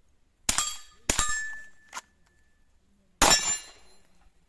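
Three shots from a .22 LR semi-automatic carbine (Umarex Hämmerli TAC R1): two about half a second apart, then one more after a pause of about two seconds. Each crack leaves a brief ringing tail, and a fainter crack follows just before the two-second mark.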